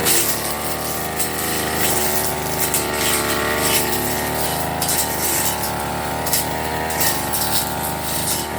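Firman FGB389FI brush cutter running at high speed while cutting grass, its engine pitch rising and dipping a little as the blade meets the growth, with short swishing hits through it.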